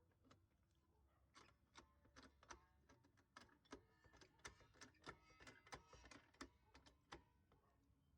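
Near silence broken by faint, irregular clicks and ticks, about twenty of them, starting about a second and a half in and stopping near the end.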